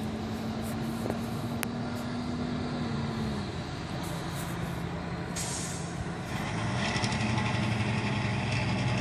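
Fire truck's diesel engine running, with a short air-brake hiss about five seconds in. The engine then grows louder in the last few seconds.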